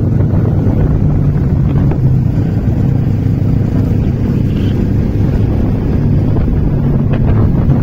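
Yamaha 155cc single-cylinder sport bike engine running steadily at low road speed, heard from the saddle, with wind buffeting the microphone.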